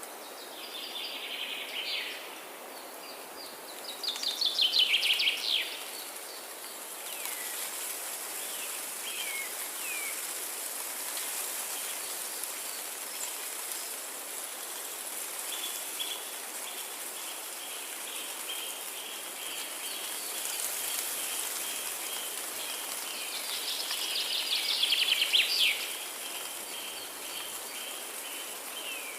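Forest ambience: a songbird sings three loud, fast trilled phrases that fall in pitch, one near the start, one about four seconds in and one near the end, with a few short chirps between. From about halfway a fast, high ticking call runs on steadily, all over a constant hiss of background noise like rain or running water.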